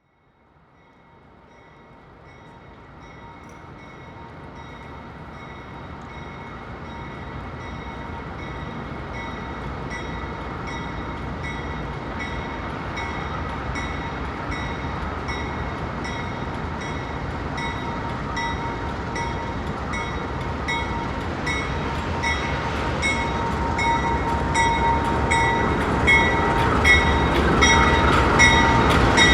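A train approaching, its rumble fading in from silence and growing steadily louder, with a sharp ringing ding repeating about one and a half times a second.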